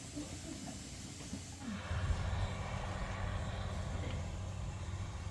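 A steady low engine rumble starts about two seconds in, over a constant hiss.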